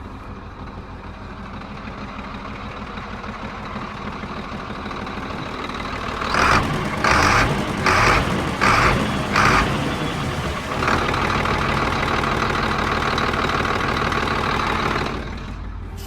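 Diesel engine of a 6x4 tractor truck running, growing slowly louder. About halfway through come four short, loud bursts a little under a second apart, and then the engine runs louder and steadier for several seconds.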